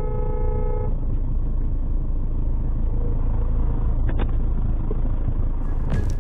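Steady low rumble of a car driving, with a car horn held until about a second in.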